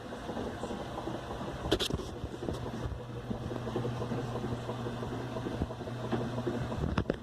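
Whirlpool direct-drive top-load washer running, a steady motor hum under a busy mechanical rattle, with a sharp click about two seconds in and a few more near the end. The washer is working properly with its new motor and capacitor.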